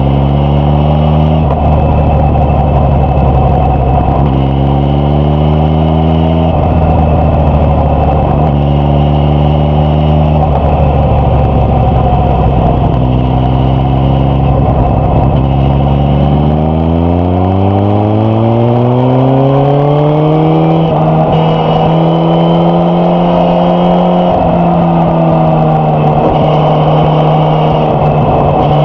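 Suzuki GSX-S1000F's inline-four engine and exhaust under way: a steady note broken by brief throttle changes, then rising in pitch over about four seconds as the bike accelerates, before settling into a higher steady note. Wind rushes past throughout.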